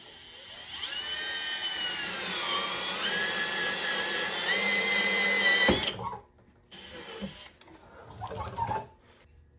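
Power drill turning a 1 1/4-inch hole saw through the radiator shroud, its pitch sagging and recovering as the saw bites, then stopping abruptly about six seconds in. A brief second spin of the drill follows a second later.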